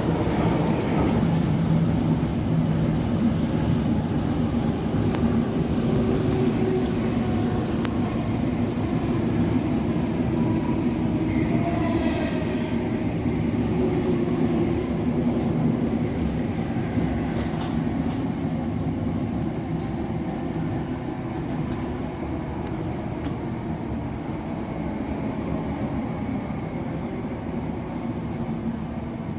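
Class 707 electric multiple unit running, heard from inside the carriage: a steady rumble of wheels on the track with faint traction-motor tones, gradually getting quieter.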